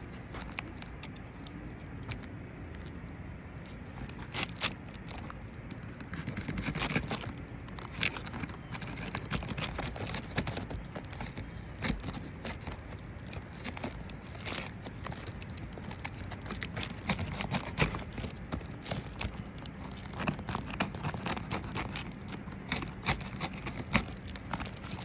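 Irregular scraping, crackling and scattered sharp clicks from hands-on work on roof shingles.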